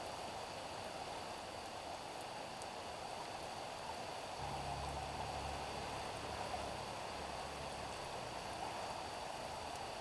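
Steady rain falling on a street, an even hiss. About halfway through, a low rumble comes in for about three seconds, then fades.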